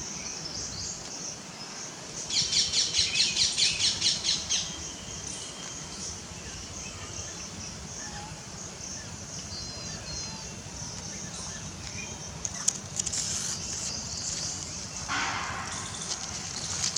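Spotted owlet giving a rapid chattering call of about six harsh notes a second for roughly two seconds, over a steady high-pitched background drone.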